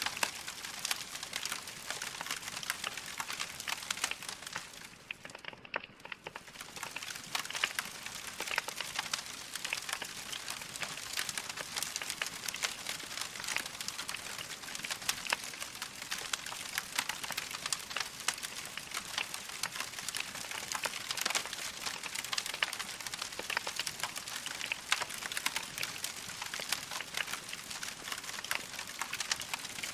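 Wood fire crackling in a fireplace: a dense, continuous run of small pops and snaps, briefly quieter around five seconds in.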